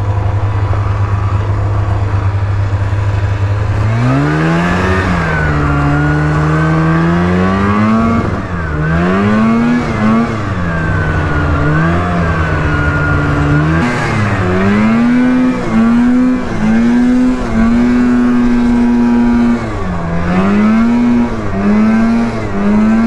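Two-stroke snowmobile engine idling steadily, then from about four seconds in revving up and down again and again with the throttle, its pitch rising and falling. Near the end the revs come in quicker, shorter pulls.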